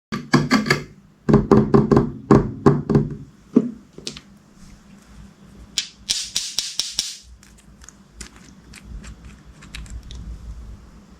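Slime being worked by hand: a quick run of loud wet squelches and pops, then a short crackly rustle about six seconds in, and scattered light clicks and taps.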